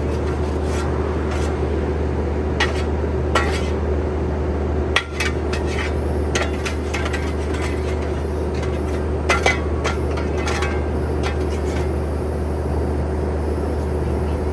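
Scattered metallic clinks and clanks of tools and parts being handled, over a steady low machine hum.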